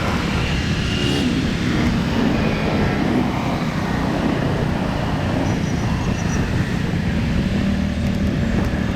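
Steady rumble of a vehicle on the move in city traffic: a running engine under wind and road noise on the microphone.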